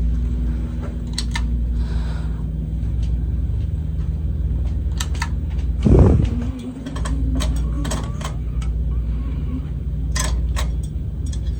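Gulf Coast Centurion ceiling fan's motor running at low speed with a steady low hum. Scattered clicks over it, and one short louder sound about six seconds in.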